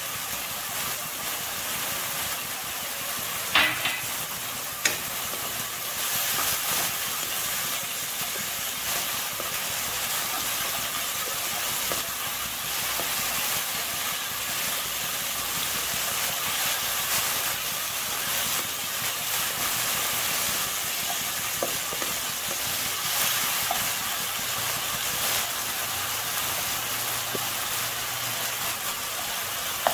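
Diced chicken sizzling in hot oil in a wok, stirred with a wooden spatula: a steady frying hiss, with two sharp knocks about four and five seconds in.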